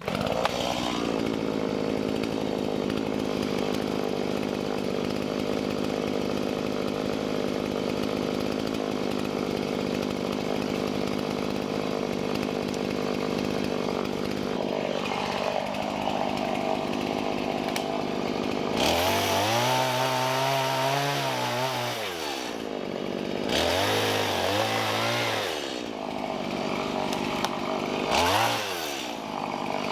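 Two-stroke chainsaw running steadily at speed, then three times, about two-thirds of the way in, a little later and near the end, its engine revs up and drops back.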